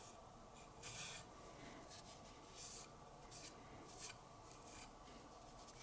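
Faint, brief rubbing strokes against the S90V blade of a knife clamped in a Wicked Edge guided sharpener, about seven hissing strokes at a little under one a second.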